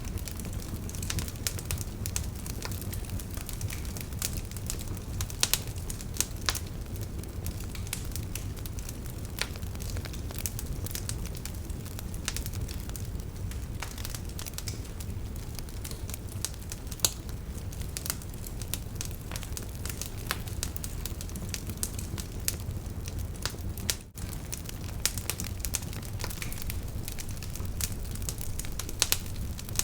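Wood campfire burning: a steady low rumble of flame with irregular sharp crackles and pops throughout, and a brief dropout about 24 seconds in.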